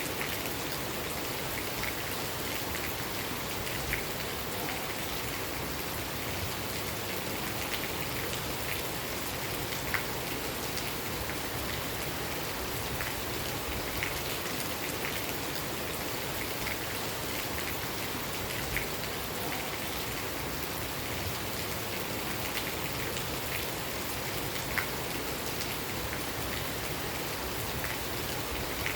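Steady rain falling at night, with scattered louder single drops ticking on a nearby surface.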